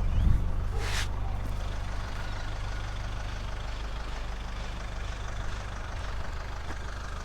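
Vehicle engine running with a steady low hum, heard from inside the cab while driving, with one sharp click about a second in.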